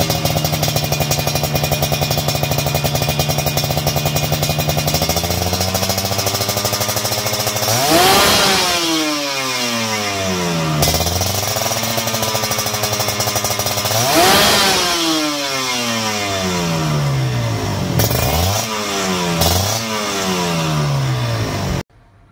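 Two-stroke Kawasaki Ninja 150 engine through an aftermarket racing exhaust, idling steadily and then revved hard twice, with two quick throttle blips after. The sound cuts off suddenly just before the end.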